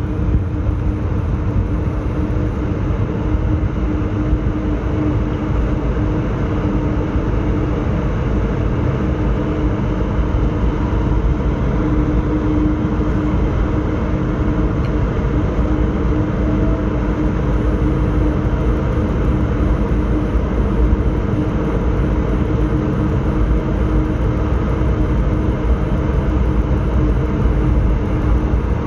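Cabin noise inside an Airbus A220-300: a steady low rumble with a steady hum over it.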